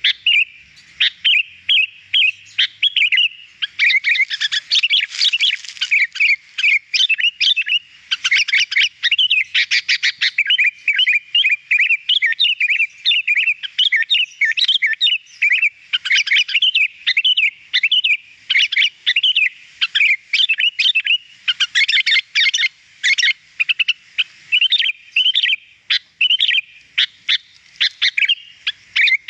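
Sooty-headed bulbul (kutilang) singing energetically, a rapid, nearly unbroken stream of chirps and warbled notes.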